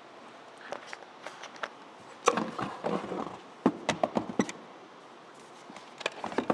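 Irregular knocks, clicks and clatter, like objects being handled or bumped, with a denser burst of clattering about two seconds in, over a faint steady hiss.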